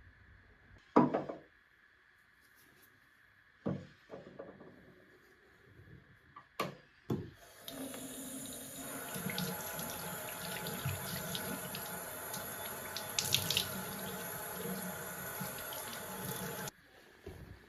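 A few separate knocks and clatters, then water running from a tap into a sink for about nine seconds, stopping suddenly near the end.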